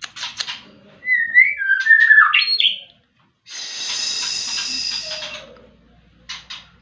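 White-rumped shama singing: a few short clicking notes, then a run of loud whistled notes gliding up and down, a brief pause, and a harsh buzzing rattle about two seconds long, ending with more short clicks.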